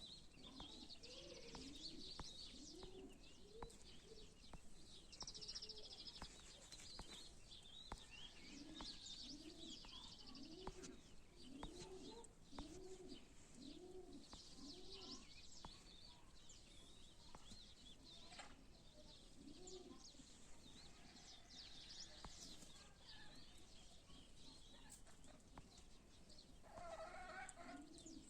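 Doves cooing in runs of low, evenly spaced coos, with small birds chirping and twittering throughout.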